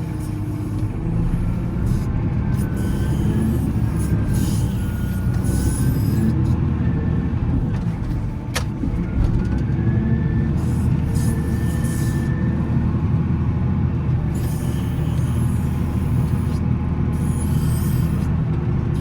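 Volvo L70C wheel loader's diesel engine running steadily while plowing snow, with a faint whine that wavers in pitch and one sharp click about halfway through.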